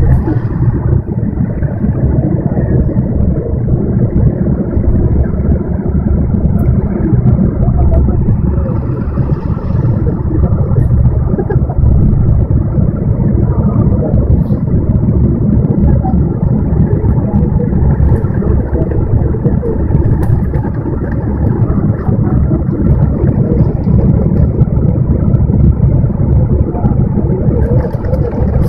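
Heavy wind-driven rain and floodwater rushing through a street: a loud, steady, rumbling wash of noise that doesn't let up.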